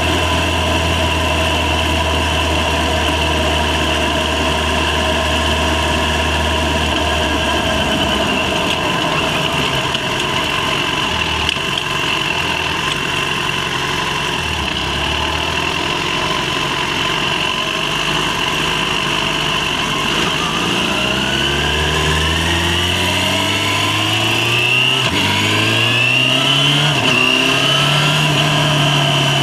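Yamaha FZ6's inline-four engine running steadily, then, about two-thirds of the way in, accelerating with a rising pitch that dips briefly at a gear change and climbs again before levelling off.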